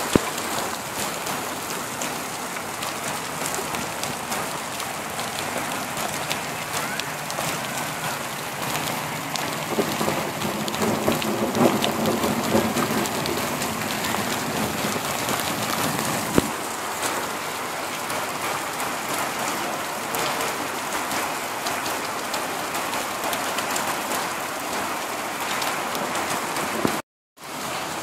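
Steady rain falling on a flat, water-covered concrete rooftop, a dense patter of drops. A low rumble swells and fades from about ten to thirteen seconds in, and the sound cuts out for a moment near the end.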